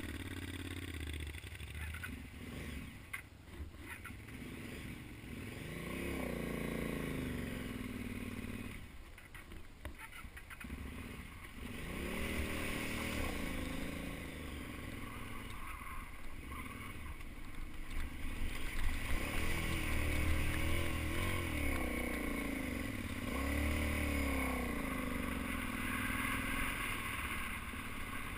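Motor vehicle engine revving up and dropping back several times while it drives through a deep creek, with the steady rush of water around it.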